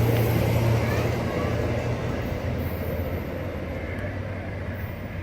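Amtrak passenger train moving along the platform: a steady low hum over a rumble of wheels and running gear, slowly growing quieter.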